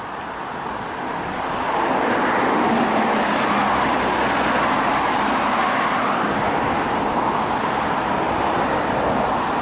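Road traffic going by: a steady rush of tyre noise that swells over the first two seconds and then holds.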